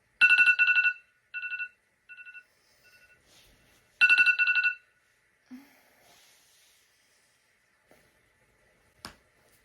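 Electronic telephone ringtone: a fast warbling trill, rung twice about four seconds apart, each ring followed by fading echoes. A single sharp click comes near the end.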